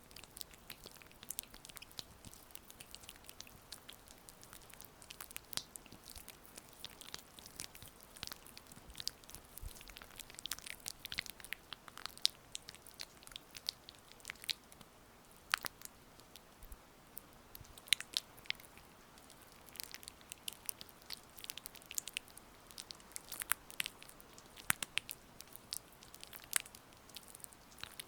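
Oiled hands massaging close to the microphone: soft, sticky, wet clicks and crackles that come irregularly, several a second, over a faint steady hiss.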